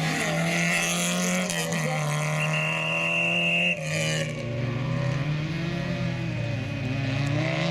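Autocross race car engine running hard at steady high revs, then coming off the throttle about four seconds in, its pitch sagging before climbing again near the end.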